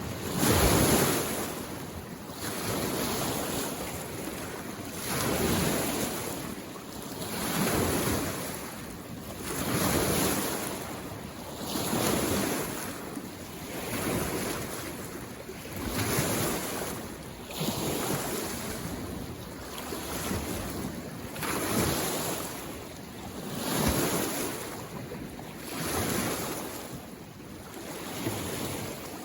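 Waves on a mountain lake coming in to the shore, a rushing wash of water that swells and fades about every two seconds.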